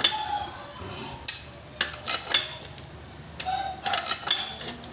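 Steel hand tools clinking and knocking against metal, a series of separate sharp, ringing clinks with uneven gaps, as a wrench on a pipe extension works at the rear axle nut.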